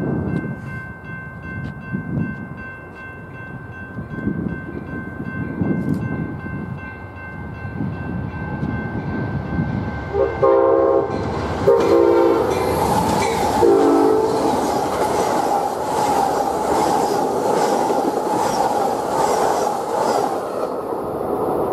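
Grade-crossing bell ringing steadily as an Amtrak P42DC diesel locomotive approaches. About ten seconds in, the locomotive sounds its horn in three blasts, then the train passes close with a loud rumble and clickety-clack of wheels over the rail joints.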